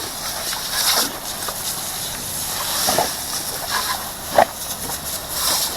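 Water spraying from a garden hose during a truck wash, a steady hiss with some splashing, and a few short sounds about three and four seconds in.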